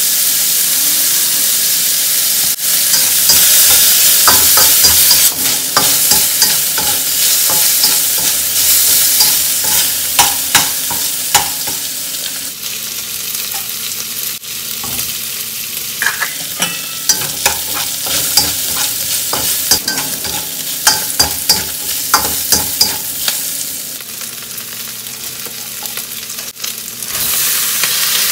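Sliced pork belly frying and sizzling in a wok, stirred with a spatula that clicks and scrapes against the metal.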